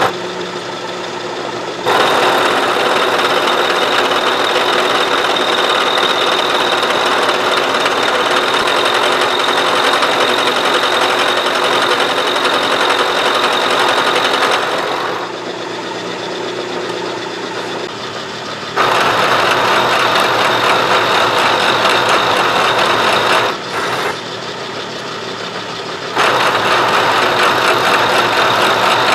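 Milling machine running, its cutter taking a pass along a metal key. The sound is steady with a fixed whine, growing louder for long stretches and dropping back in between.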